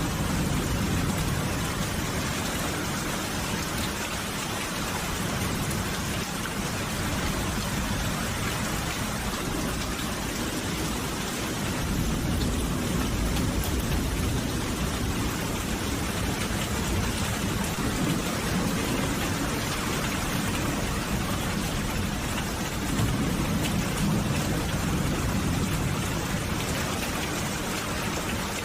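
Steady, heavy rainfall, a continuous hiss of drops on surfaces, with low rumbles of distant thunder swelling a few times.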